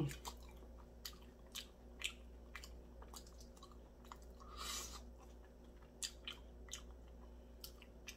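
Close-up chewing and soft wet mouth clicks of a person eating a roasted chicken drumstick off the bone. A short falling "mm" hum comes right at the start, and a longer breathy noise comes about halfway through.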